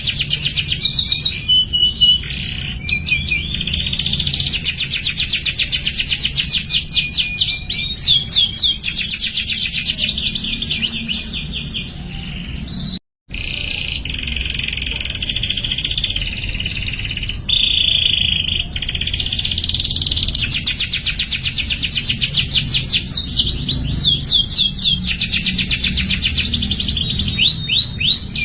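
Domestic canary singing a long, rapid song of rolling trills and quick rising sweeps. It cuts out abruptly for a moment about halfway through, then carries on.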